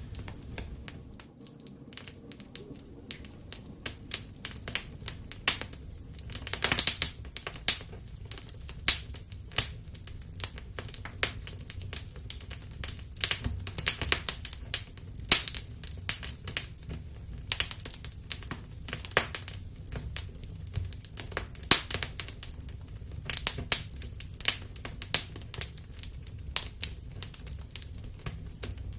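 Fire in a fireplace crackling, with irregular sharp pops and snaps over a steady low rumble of the flames.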